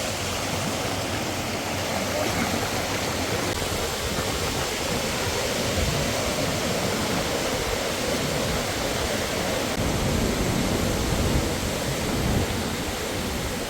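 Waterfall's water rushing steadily: an even hiss with a rumble underneath.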